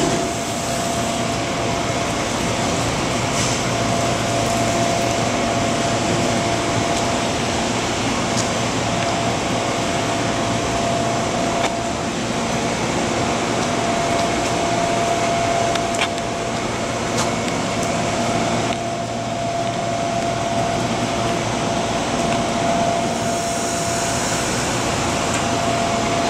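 Steady hiss and hum of a passenger train standing at a station platform, its electric locomotive's blowers and air conditioning running with a steady whine.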